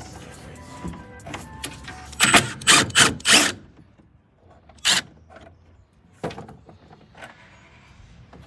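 A series of sharp knocks and clicks from hard parts being handled, with four loud ones close together about two to three and a half seconds in, another single loud one about five seconds in, and a few fainter ones after.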